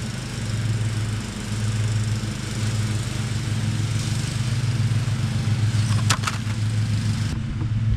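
Steady low motor drone, with a few sharp clicks about six seconds in.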